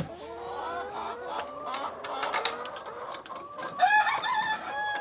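Hens clucking and chattering, with a louder, drawn-out call about four seconds in and short sharp clicks scattered among the calls.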